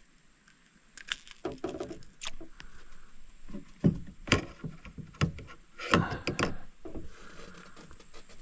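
Irregular knocks and clunks of gear and handling against a kayak, the loudest about four and six seconds in.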